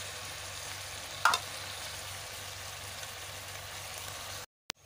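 Chopped okra with onion and tomato sizzling steadily in a pot on the stove, with one sharp clack about a second in. The sizzle cuts out abruptly near the end.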